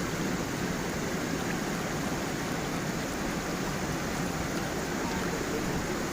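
Small waterfall and stream flowing, a steady, even rush of water.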